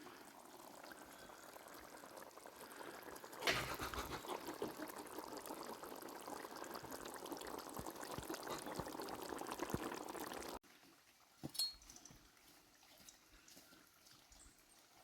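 Liquid pouring in a steady stream, starting more strongly with a splash about three and a half seconds in and cutting off abruptly about ten and a half seconds in. After it, quieter with one short knock.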